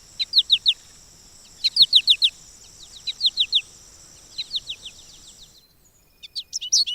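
Small songbird calling: short bursts of four or five quick, high, down-slurred chirps, repeated about every second and a half over a steady high hiss. Near the end the hiss cuts off and a faster, more varied run of high chirps takes over.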